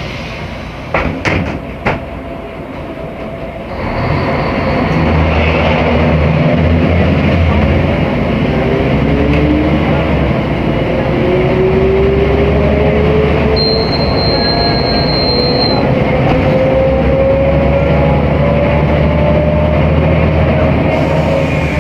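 Mercedes-Benz O500MA articulated bus heard from on board. A few sharp knocks come in the first two seconds. About four seconds in, the engine comes under power and the bus accelerates, with a whine that climbs slowly and steadily in pitch.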